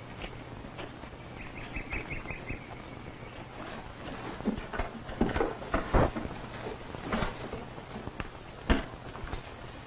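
A bird chirping in a quick run of short high notes about a second in, followed by scattered knocks and thumps.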